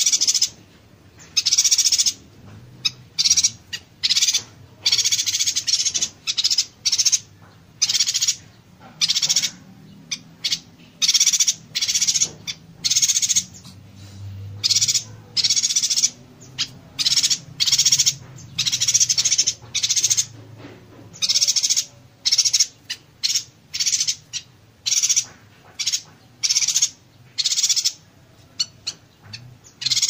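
Yuhina singing a dense string of rapid, high-pitched buzzy call bursts, each a fraction of a second long, following one another with only short gaps: the 'konslet' chatter.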